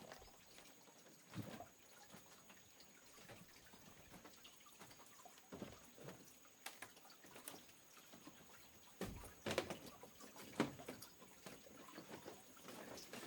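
Faint water sounds with a few scattered small knocks, the clearest a little past the middle, over a faint steady high tone.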